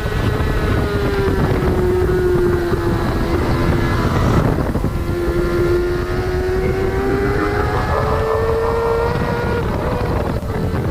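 Yamaha R6's 599cc inline-four sportbike engine running at high revs through a Yoshimura AT2 race full exhaust system. The note sags slightly, breaks briefly about four seconds in, then climbs steadily as the bike pulls.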